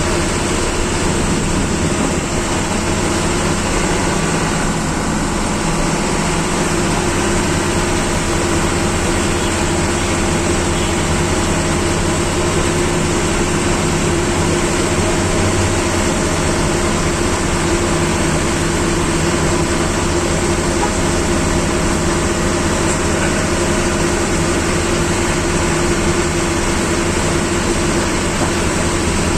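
Bus engine running steadily with road noise, heard from inside the driver's cabin.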